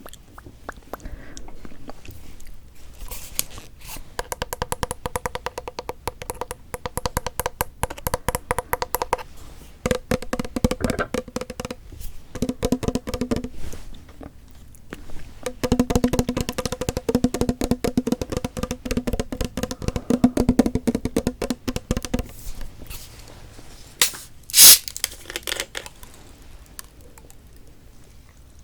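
Close-miked noodle slurping: three long runs of rapid wet clicking as cold bibim noodles are sucked in. Near the end comes one short, loud hiss.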